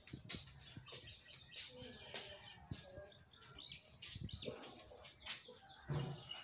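Faint bird chirps, with soft knocks repeating evenly, a little under two a second.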